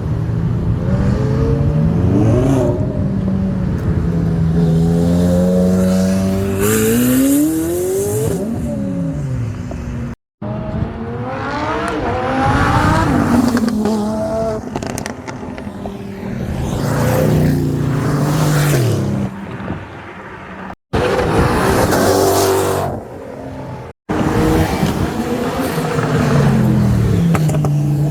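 Performance cars revving and accelerating hard as they pull away, their engine notes climbing and dropping through gear changes. The sound comes in several short clips, broken by abrupt cuts about 10, 21 and 24 seconds in.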